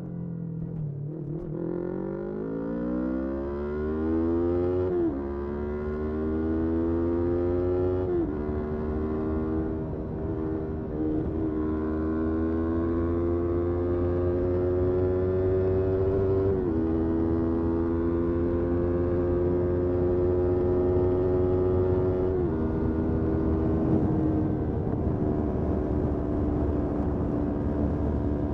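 Motorcycle engine accelerating through the gears, its pitch climbing in each gear and dropping at upshifts about 5, 8, 17 and 22 seconds in.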